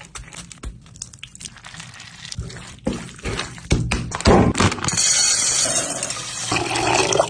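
Liquid poured and splashing in cooking, a loud steady rush starting about five seconds in, after a few seconds of small clicks and knocks from handling.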